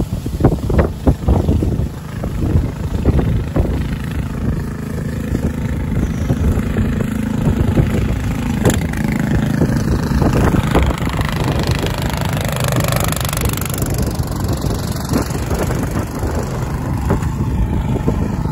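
Strong snowstorm wind buffeting the microphone: a heavy low noise that surges in sharp gusts in the first few seconds, then blows more steadily.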